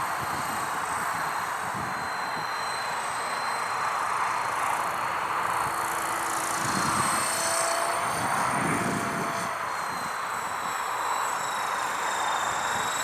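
Small remote-controlled helicopter's electric rotors whining steadily in flight, with thin high motor tones over a rushing blade noise.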